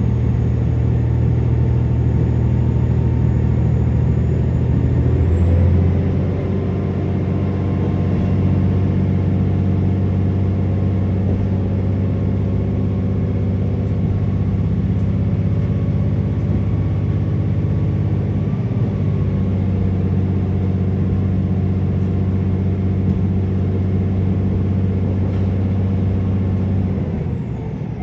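KiHa 47 diesel railcar's engine running hard under power, heard from inside the car. About five seconds in the engine note changes and steadies again, and near the end the engine sound drops away as power is shut off.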